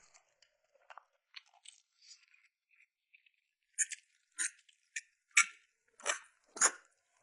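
A person eating close to the microphone: faint mouth clicks at first, then from about halfway a run of six loud, sharp chewing smacks at roughly half-second intervals.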